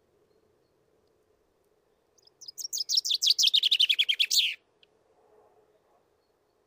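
Common chaffinch singing one song: a fast series of notes falling in pitch and speeding up, ending in a short flourish, about two and a half seconds long.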